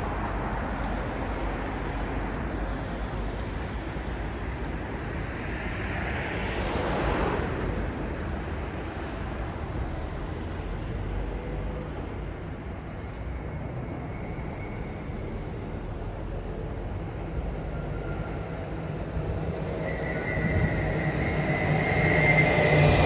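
Steady city traffic rumble. A vehicle passes about seven seconds in, and near the end a louder, heavier vehicle draws close with a high steady whine over its rumble.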